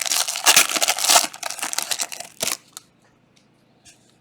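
Foil wrapper of a trading-card pack being torn and crinkled open, a dense crackling that lasts about three seconds and then stops, leaving a few faint clicks.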